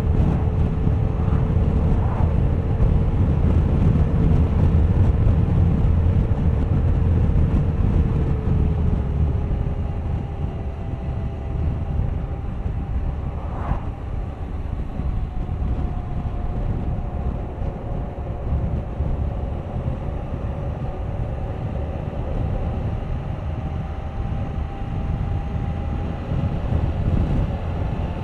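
Suzuki GSX1250FA's inline-four engine running on the road under heavy wind rumble on the microphone. About nine seconds in, the engine note dips and the sound gets a little quieter.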